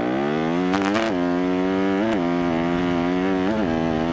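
Dirt bike's single-cylinder four-stroke engine revving up through the first second, then held at a steady speed with three brief surges in revs.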